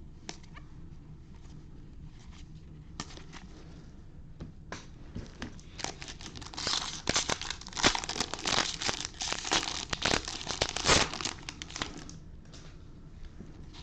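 A baseball card pack's wrapper being handled, then crinkling and tearing as it is opened. A few scattered crackles come first, then dense crinkling from about five seconds in until near the end.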